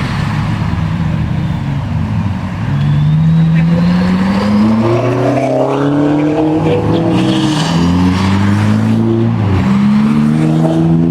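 Sports car engine revving loudly, its pitch climbing in steps from about two and a half seconds in, falling back around the middle, then rising again near the end.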